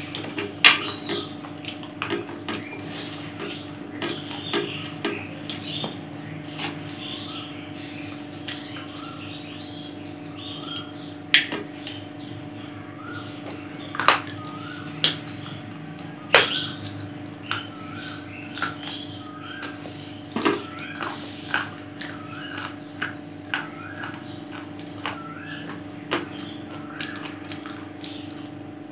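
Close-up eating sounds: chewing and gnawing on chicken bones with the mouth, with sharp clicks and smacks scattered throughout. A steady low hum runs underneath. From about midway, small chirps repeat roughly once a second in the background.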